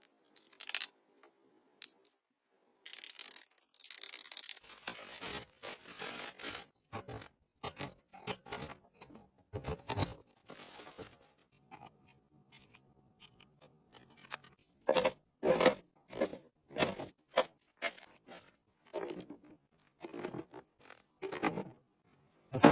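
Handling noises from objects being worked by hand: a string of short clicks, knocks and scrapes, with a few brief rustling stretches and gaps of silence between them, the sharpest knocks coming in the later part.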